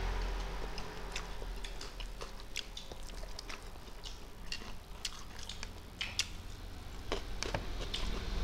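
Close-miked eating sounds: irregular wet clicks of chewing and lip smacking while eating rice and meat, a few of them sharper, over a low steady hum.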